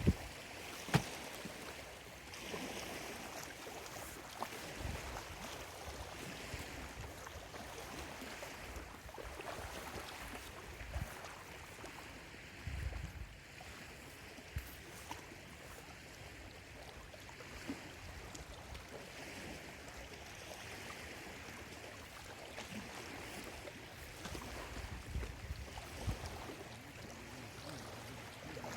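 Small waves lapping and splashing irregularly against a lakeshore, with occasional soft low thumps of water.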